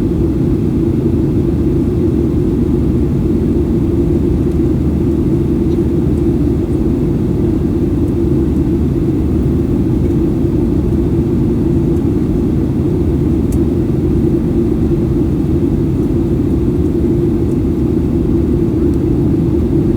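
Steady cabin noise inside an airborne Boeing 737-800: a constant deep rumble of its CFM56 turbofans and rushing air, heard from a seat behind the wing.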